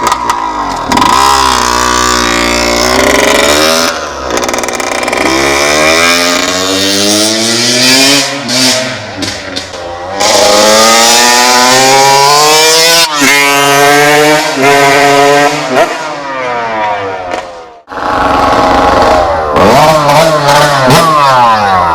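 TM SMR 125 two-stroke supermoto engine revving hard, its pitch climbing and falling again and again. The sound cuts out suddenly for a moment near the end, then picks up again.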